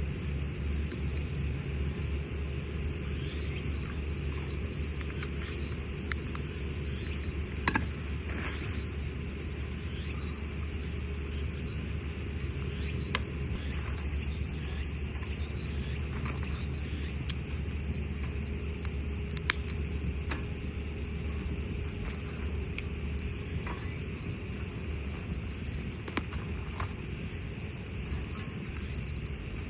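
Autumn crickets chirring in a steady, high, continuous trill, over a low rumble, with a few sharp pops and clicks scattered through.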